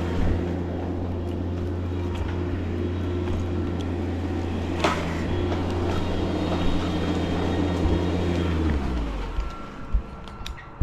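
A large engine idling steadily, with a single knock about five seconds in. It then shuts off and winds down, falling in pitch, a little before the end.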